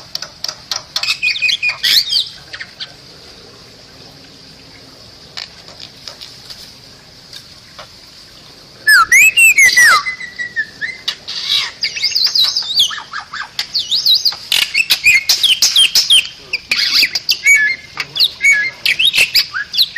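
Bali myna singing: sharp chattering notes mixed with whistled glides. Only scattered notes for several seconds, then a loud burst of whistles about nine seconds in, followed by dense, rapid chattering.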